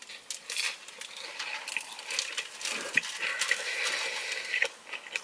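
A bite taken from a large fried chicken sandwich, then chewing a mouthful: a stream of short, crisp crackles from the breading.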